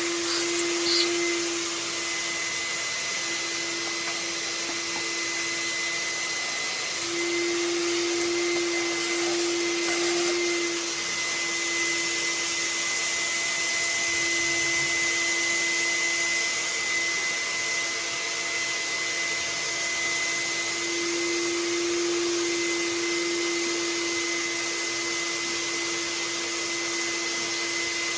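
Shop vacuum running steadily with a constant motor hum, its pitch and level swelling slightly now and then as the nozzle is worked over the scooter engine's corroded parts to pick up rust and aluminum oxide.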